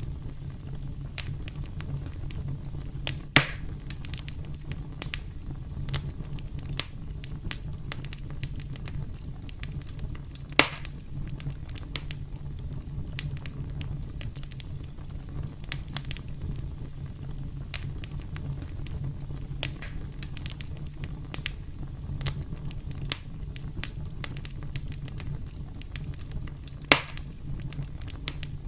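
Campfire burning with a steady low rumble and constant light crackling, broken by three louder sharp pops.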